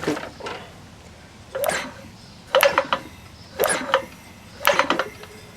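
7 hp Tecumseh small engine being cranked over by hand four times, about once a second, without starting, while it is tested for spark after a coil change.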